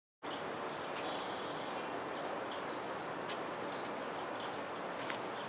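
Outdoor ambience that starts abruptly: a steady rushing hiss with small birds chirping over it again and again.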